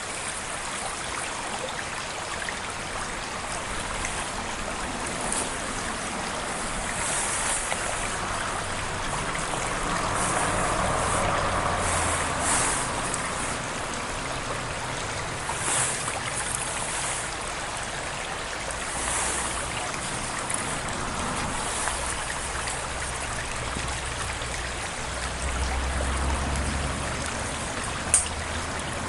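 Steady rushing of a stream, with a few short hissing sounds scattered through it and one sharp click near the end.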